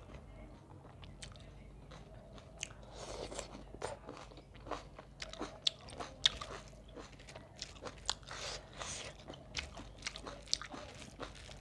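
Close-miked eating sounds: chewing and crunching with many sharp wet mouth clicks, as food eaten by hand is chewed, and fingers working rice on a steel plate.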